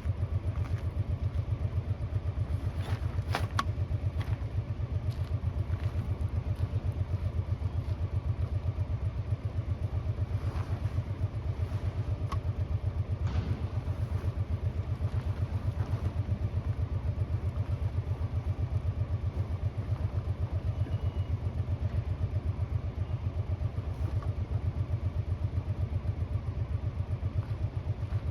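An engine idling steadily, with a fast, even low pulse. A few light clicks and knocks land over it, mainly in the first half.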